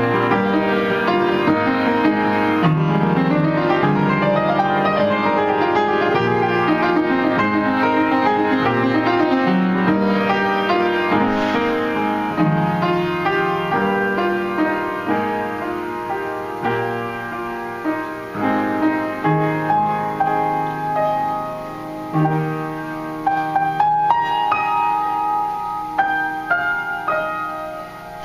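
Piano playing the instrumental close of a song: held chords at first, then quieter single notes struck one by one as the piece winds down.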